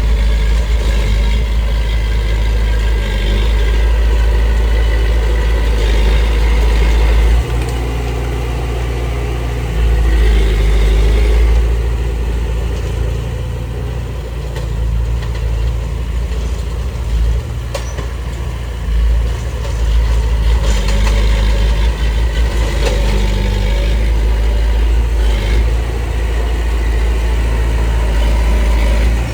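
Diesel engine of heavy earthmoving machinery running steadily, its level rising and falling several times as the load changes, with one sharp click partway through.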